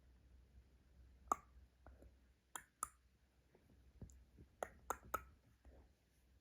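Near silence broken by about seven faint, sharp clicks and taps, several in quick pairs and triples.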